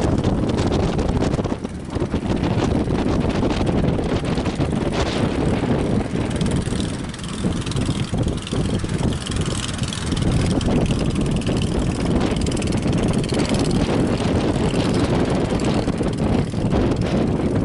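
Strong wind buffeting the microphone over the steady drone of a boat's engine, with gusts that come and go.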